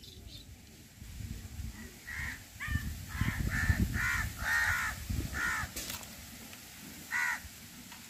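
A bird gives a quick run of about seven harsh, nasal calls, then one more call near the end, with low rumbling underneath the first run.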